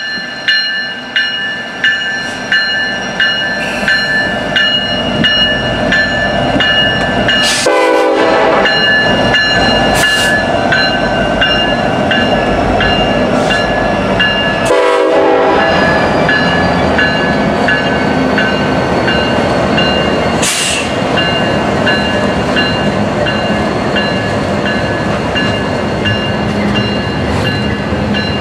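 Freight trains passing with diesel locomotives running and wheels clacking rhythmically over rail joints. A high, steady ringing warning signal sounds over it almost throughout, broken twice briefly.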